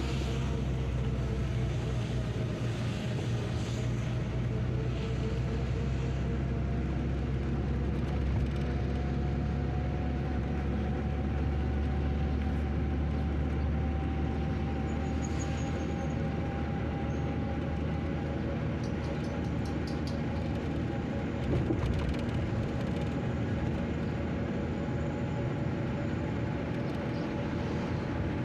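A motor vehicle's engine running steadily with a low rumble, its pitch slowly rising and falling.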